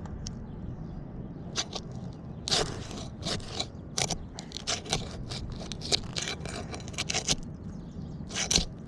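Snake tool scraping and crackling as it is worked under asphalt shingles to break their adhesive seals, in a string of short scrapes.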